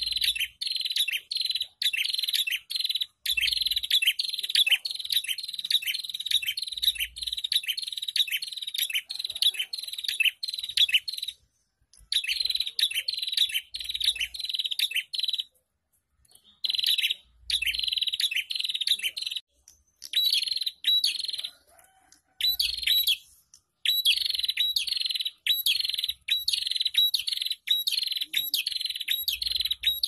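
A caged prenjak singing: a fast, sharp chirping call repeated several times a second in long runs, with short pauses between runs.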